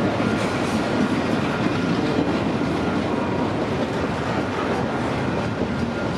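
CPKC container train's cars rolling past, a steady noise of steel wheels on rail that eases slightly near the end.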